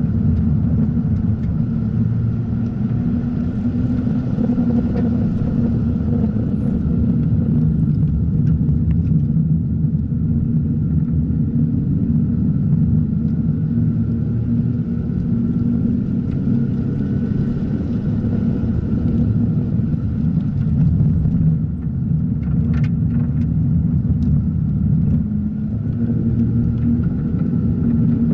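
Mazda RX-8's rotary engine running steadily under load as the car is driven at speed on track, a loud low drone, with a few short clicks about two-thirds of the way through.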